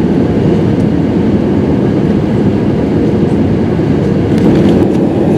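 Steady low roar of engine and airflow inside the passenger cabin of an Airbus A320 airliner on descent.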